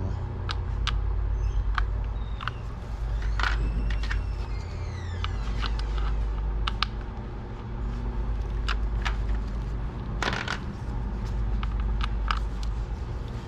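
Allen key working the bolts of a motorcycle's plastic exhaust shield: scattered metal clicks and clinks, with a few short squeaks about four seconds in, over a steady low hum.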